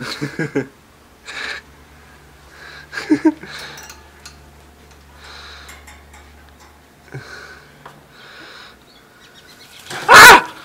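A caged pet bird calling in short bursts every second or two, with one much louder call about ten seconds in.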